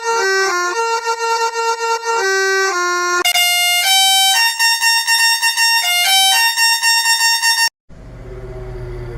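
A musical horn plays a tune of held, stepping notes in a buzzy, reedy tone. It cuts off abruptly near the end and gives way to a low, steady hum.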